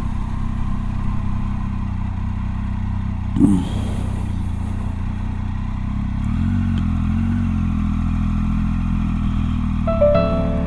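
Motorcycle engine running steadily on the road, its note rising a little about six seconds in, with a brief louder burst about three and a half seconds in. Music starts near the end.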